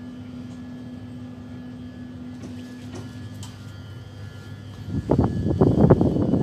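Steady hum with a single held tone inside a standing Omnéo Premium (Régio 2N) double-deck electric train. About five seconds in, a much louder, uneven rushing noise takes over beside the train on the open platform.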